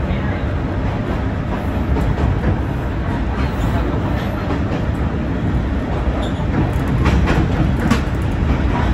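Kominato Railway diesel railcar running along the line: a steady low rumble of engine and wheels on the rails, with a few sharp clacks from the track about seven to eight seconds in.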